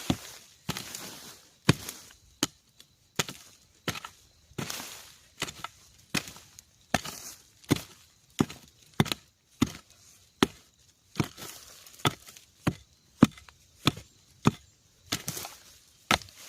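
A hand tool chopping over and over at an uneven pace, about one and a half strikes a second, as bamboo shoots are cut and dug out.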